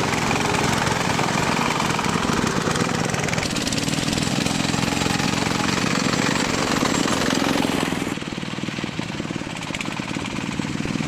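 An engine running with a rapid, rough pulsing beat; the sound changes abruptly about three and a half seconds in and gets quieter about eight seconds in.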